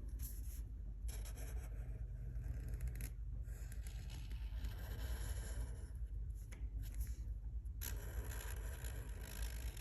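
Colouring strokes scratching on paper, a steady run of scraping with brief pauses between strokes, over a low steady hum.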